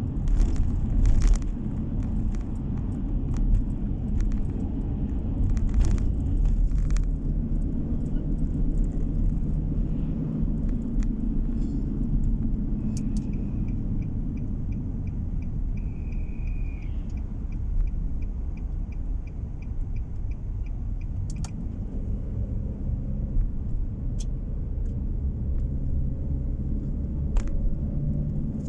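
Car driving on the road, heard from inside: a steady low rumble of engine and tyres, with a few sharp knocks in the first seconds and a light, evenly spaced ticking for several seconds midway.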